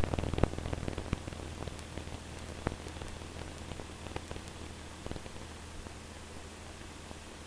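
Faint hiss and static on a cockpit radio/intercom feed with no one transmitting, with scattered small crackles and a steady low hum underneath.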